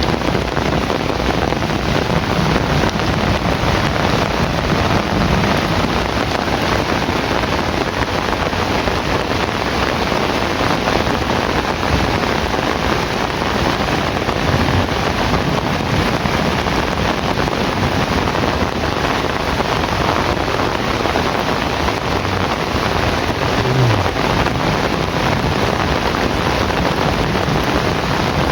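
Heavy rain pouring steadily, an even unbroken hiss of downpour.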